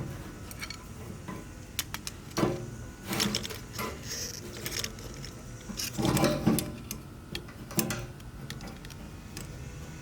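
Irregular clicks, taps and light clatter of a fuel pump and sending unit assembly being handled, as the pump's retaining clip is squeezed and worked loose. Bunches of clatter come a couple of seconds in, at about three seconds and about six seconds in.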